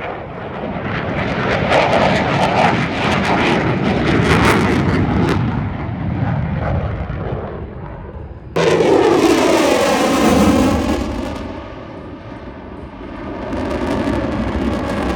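Jet aircraft flying past: engine noise swells and fades, then after an abrupt cut about eight and a half seconds in a second, louder pass comes with a sweeping, falling pitch, and the noise builds again near the end.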